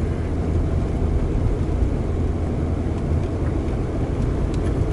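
Steady low rumble of a car being driven: engine and tyre noise on a snowy road, with no distinct events.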